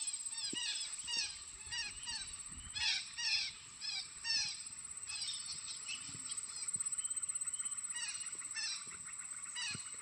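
A large flock of parakeets calling: many overlapping short, shrill calls that drop in pitch, over a steady high whine.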